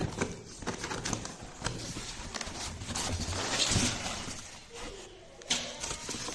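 Irregular clatter, knocks and rustling of objects being handled, with one sharp knock near the end.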